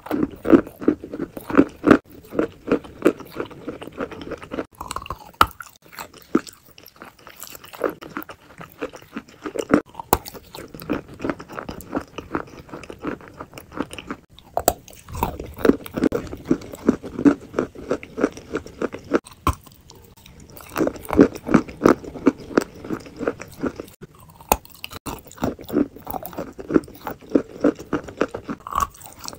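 Mouth sounds of eating a soft, sauce-coated food: wet chewing and smacking in several runs of rapid clicks, with short pauses between them.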